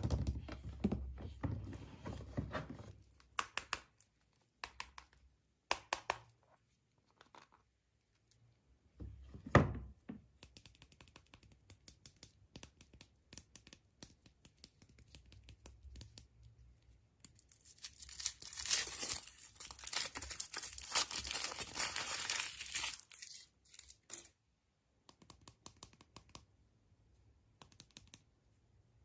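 Packaging wrapper being crinkled and torn open by hand, with scattered clicks and a sharp knock about ten seconds in. A longer, louder stretch of tearing and crinkling comes about two-thirds of the way through.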